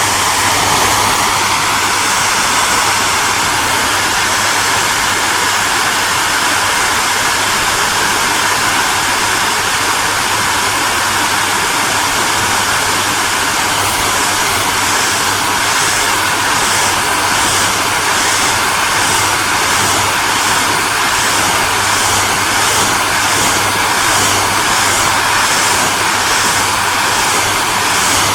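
Electric hair dryer running steadily: a constant blowing rush of air over a low motor hum. From about halfway a faint regular pulsing, roughly once a second, comes into the high hiss.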